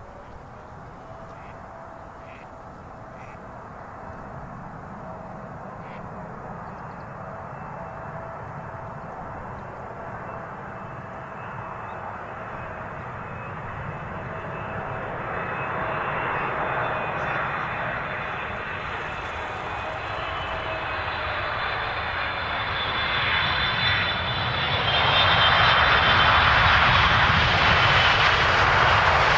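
Boeing 777-300ER's twin GE90-115B turbofans on approach, growing steadily louder as the airliner nears, a rushing roar with a whining fan tone on top, loudest in the last few seconds.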